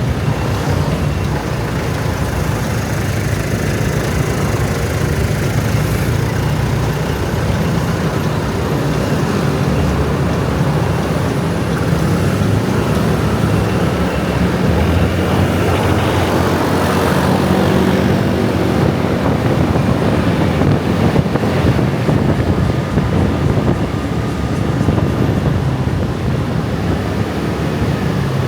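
Dense road traffic: a continuous stream of motor scooters and other vehicles running past, a steady engine hum and tyre noise that swells a little about halfway through.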